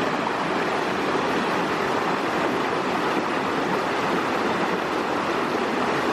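Stream water rushing, a steady unbroken rush.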